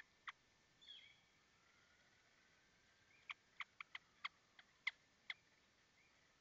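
Faint bird calls: a short falling call about a second in, then a quick series of about eight sharp chip notes in the second half.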